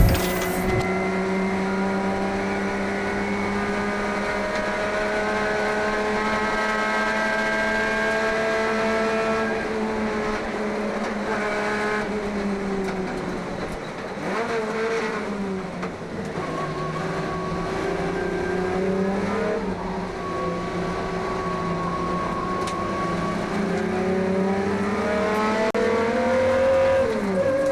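1971 HQ Holden race car's engine running hard under load. Its pitch climbs slowly, falls and picks up again a few times as it lifts, brakes and shifts, and drops sharply near the end. A brief sharp crack comes right at the start.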